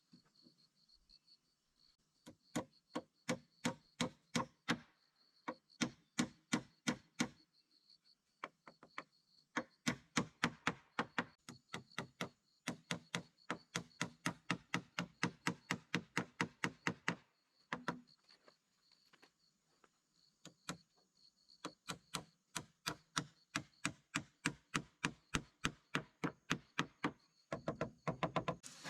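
Rapid repeated strikes of a hand tool on wood, about three or four a second, in runs of several seconds broken by short pauses, as in chopping or hammering.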